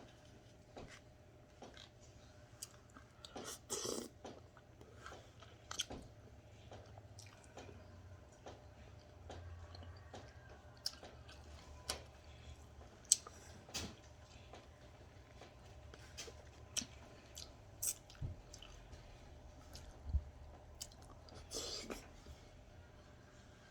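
A person chewing food quietly, with scattered short clicks and smacks from the mouth and eating.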